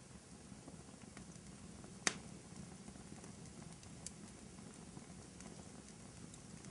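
Fire crackling in a fireplace: a faint, steady low rumble of burning with scattered small crackles. One sharp pop comes about two seconds in, and a smaller one about two seconds later.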